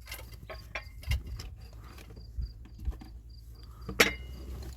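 A high chirp repeating evenly, about three times a second, over scattered soft clicks and knocks, with one sharper click near the end.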